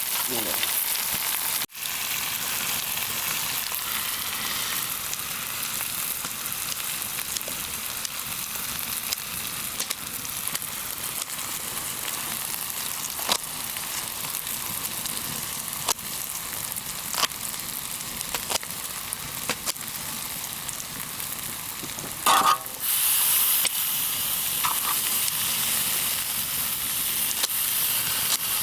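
Pork belly sizzling in its own fat on a cauldron-lid griddle, a steady sizzle dotted with sharp spattering ticks. About 22 seconds in there is a short clatter, and the sizzle is louder after it.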